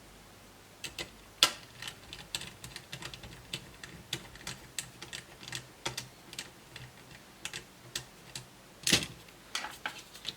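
Irregular clicks and taps of small laptop parts being handled: a metal shield being fitted back and screws being picked through. They start about a second in, with a louder knock just after and another near the end.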